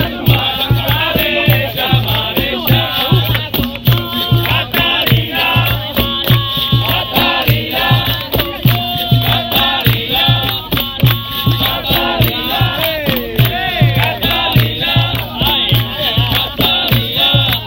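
Capoeira roda music: a steady drum beat, about two strokes a second, under group chanting and singing.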